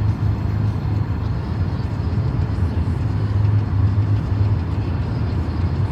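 Steady low rumble and hiss of a car driving, heard from inside the cabin: road and engine noise with a constant low hum.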